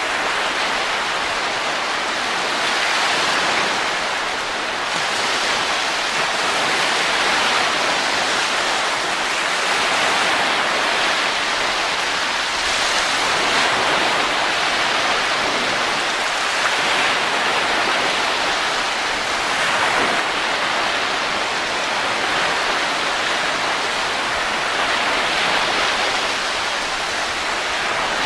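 Steady wind sound: an even rushing hiss that swells and eases slowly and gently.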